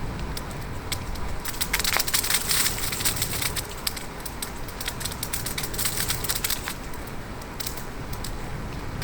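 Bicycle ride heard from the rider's position: a steady low wind rumble on the microphones, with dense bursts of crackling clicks from about a second and a half in and again around six seconds in.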